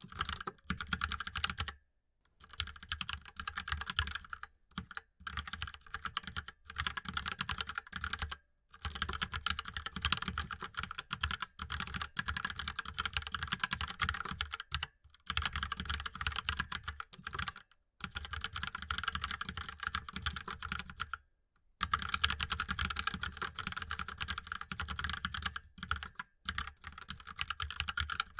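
Fast typing on a mechanical keyboard: dense runs of key clicks, broken by short pauses every few seconds.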